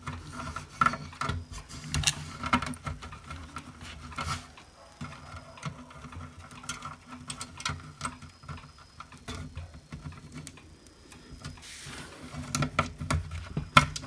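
Irregular small clicks, taps and rattles from hands working on a hot air gun handpiece, pulling its cable and air hose out of the plastic handle. A faint low hum runs steadily underneath.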